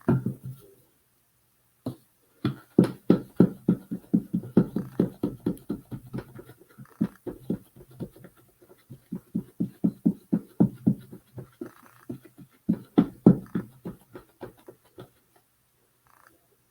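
Quick, repeated dabbing of a paint brush or sponge against a wooden birdhouse, about four to five short strokes a second, in several runs with brief pauses between them.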